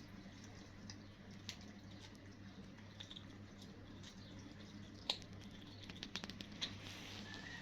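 Kittens eating wet cat food: small wet clicks and smacks of chewing and lapping, with a sharper click about five seconds in and a quick cluster a second later, over a steady low hum.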